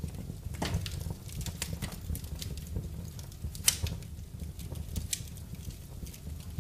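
Wood fire crackling in a fireplace: irregular snaps and pops, one sharper pop a little past halfway, over a low steady rumble of the flames.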